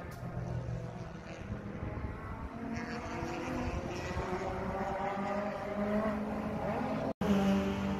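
Car engines running hard as cars lap a race circuit, the pitch climbing as a car accelerates near the end. The sound cuts out for an instant about seven seconds in.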